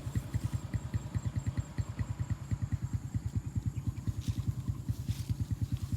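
A small engine idling steadily, with an even low chugging of about nine pulses a second.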